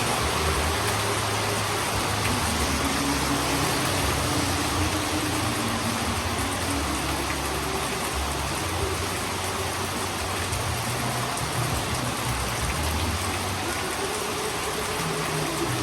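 Heavy rain falling steadily on a roof, with a low, shifting rumble underneath.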